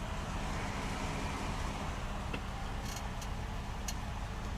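Semi-truck's diesel engine idling with a steady low rumble, with a few short clicks about halfway through.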